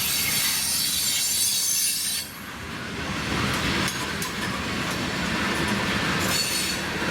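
Freight cars of a manifest train rolling past. For the first two seconds or so the wheel flanges squeal with high steady tones, then the squeal stops suddenly. After that the rolling rumble carries on with the clicks of wheels over the rail joints.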